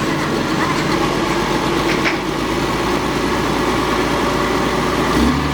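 Engine of a working tractor or dump truck running steadily at idle.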